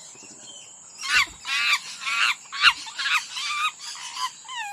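A rapid series of harsh animal calls starting about a second in, roughly one every half second, each sliding down in pitch.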